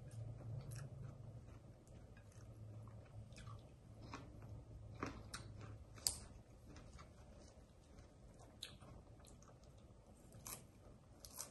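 A person chewing a mouthful of raw salad, with faint, irregular crunches and clicks.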